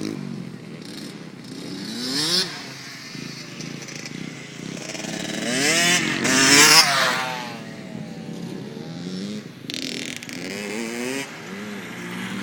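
Small dirt bike engine revving up and easing off several times, loudest about seven seconds in.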